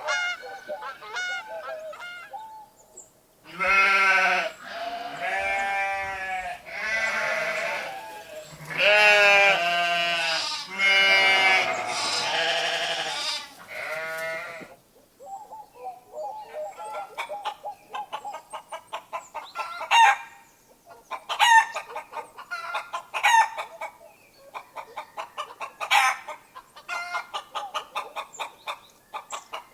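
Farmyard animals: a few short goose honks at the start, then a run of about six long, quavering bleats, and from about halfway on hens clucking in quick, continuous short notes.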